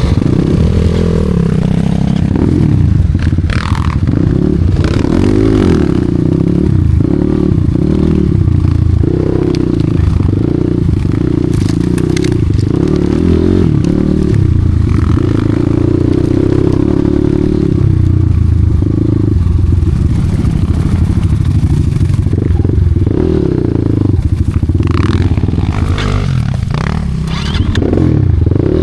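Enduro dirt bike engine working hard off-road, its revs rising and falling constantly as the rider throttles on and off.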